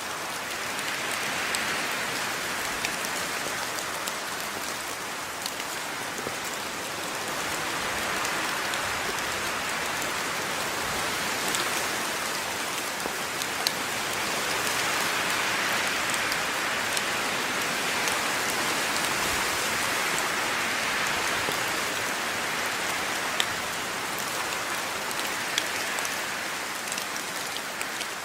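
Steady rain falling on a surface, a dense hiss that swells and eases gently over several seconds, with occasional sharper ticks of single drops.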